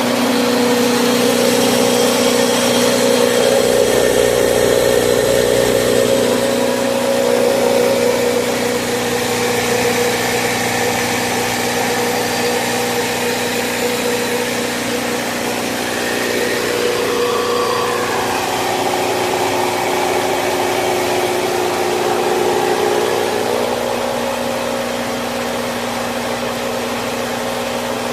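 A 6W300 three-in-one rice mill machine driven by a 4HP single-phase electric motor, running with a steady hum.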